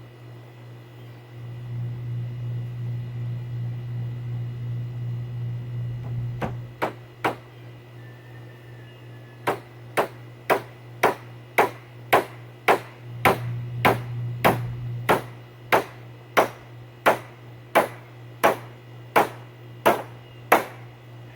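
Hammer blows during table assembly: a few knocks, then a steady run of about twenty sharp, ringing strikes at roughly two a second. A low steady hum runs underneath, louder in the first few seconds.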